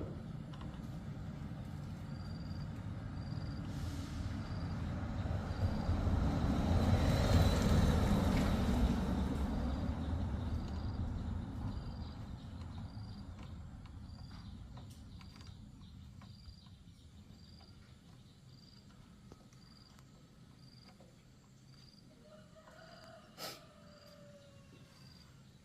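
A motor vehicle passing by: a rumble that grows to its loudest about eight seconds in, then fades away slowly. A faint high chirp repeats steadily under it.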